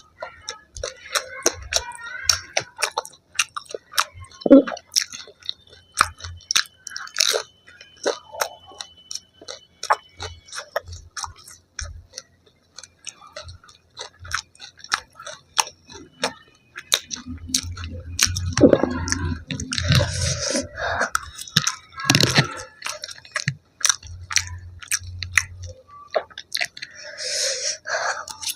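Close-miked chewing of fried street food, with frequent crisp crunches and bites at an irregular pace and a few louder, fuller mouthfuls about two-thirds of the way through.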